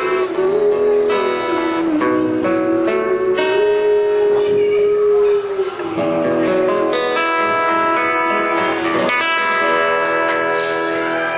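A woman singing a long held, slightly wavering note over guitar accompaniment. The voice stops about six seconds in, and the guitar plays on alone.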